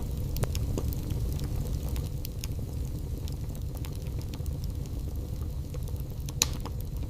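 Wood fire burning in a fireplace: a steady low rumble of flame with scattered crackles and pops, one sharper pop near the end.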